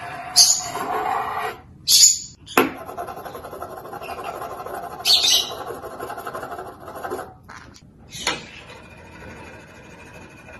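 Pet parrot giving a few short, shrill squawks a few seconds apart, with a sharp click after the second one, over a steady background noise that fades about seven seconds in.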